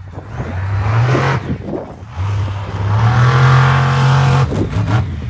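Monster truck engine revving hard in two bursts: a short rise of about a second, then a longer rev held high for about two seconds before it drops off.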